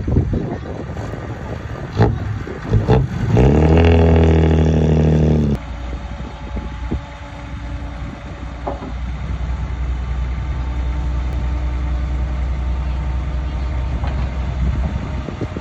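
Heavy diesel engine of earthmoving machinery: after a couple of clanks it revs up hard about three seconds in and holds high for about two seconds. It then drops suddenly back to a steady low running note.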